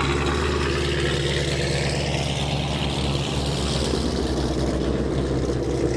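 Car engine running at low speed with a steady low rumble. A rushing noise swells and rises in pitch from about two seconds in, then fades near the end, like a vehicle passing close.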